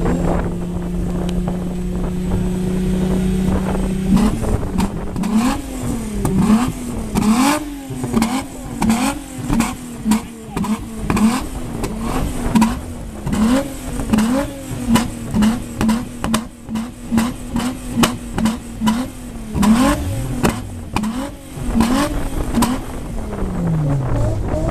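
A car engine held at steady revs for about four seconds, then blipped over and over, the revs snapping up and dropping back a little over once a second with sharp cracks among them. Near the end the revs fall away.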